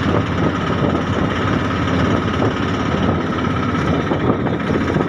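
Moving train: a steady, dense rumble and rushing noise with a faint steady whine, running without a break.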